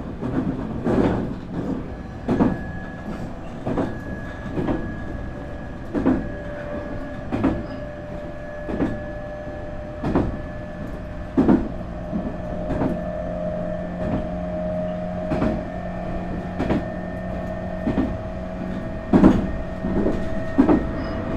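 Nankai 8300 series electric train running at speed, heard from inside the motor car: rail-joint clacks about every second and a half over a steady rolling rumble. Steady whining tones from its IGBT VVVF inverter and enclosed induction traction motors run beneath, with a lower tone joining about halfway through.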